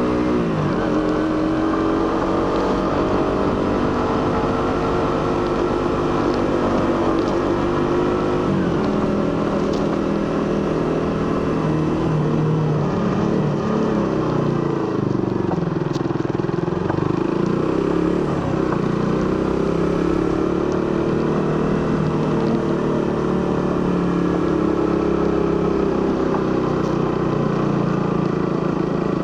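Suzuki GSX-R150's single-cylinder 150cc engine through its stock exhaust, running under way with the pitch rising and falling as the revs change, with a clear change in pitch about eight or nine seconds in.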